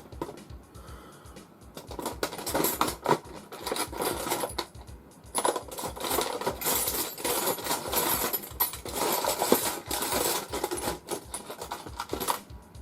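Small loose metal parts, such as screws, clinking and rattling as they are rummaged through by hand. The clatter starts about two seconds in and stops near the end.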